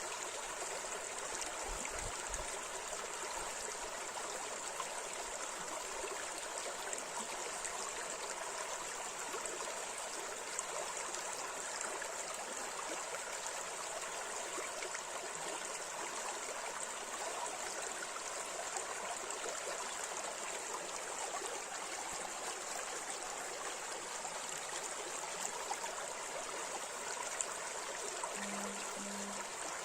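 A river flowing over shallow riffles: a steady, even rushing and babbling of water.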